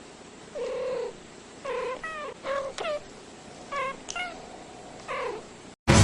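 A cat meowing, about seven short calls in quick succession, some falling in pitch. Music cuts in abruptly at the very end.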